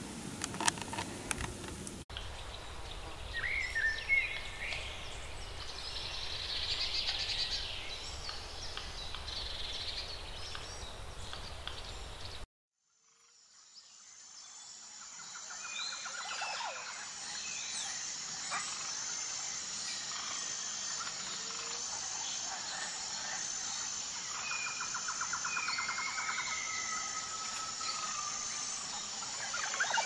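Outdoor ambience with small birds chirping now and then. The sound cuts out about twelve seconds in, then fades back in with a steady high-pitched hiss under more bird calls.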